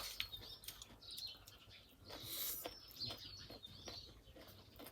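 Small birds chirping in the background, thin high whistles falling in pitch, over soft clicking mouth sounds of eating noodles and a brief noisy slurp-like rush about two seconds in.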